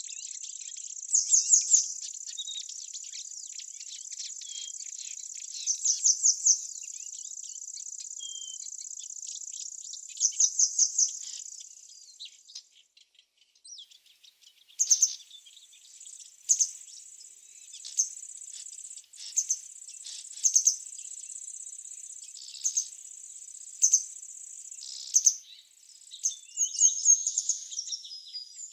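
Insects trilling steadily at a high pitch, with a louder burst of four or five quick chirps every four or five seconds. The trill drops out for a couple of seconds around the middle, then resumes with scattered short, sharp chirps and a few faint bird notes.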